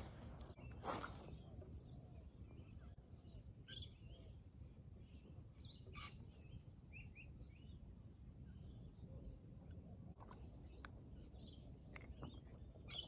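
Faint outdoor quiet with small bird chirps scattered through it and a few soft clicks.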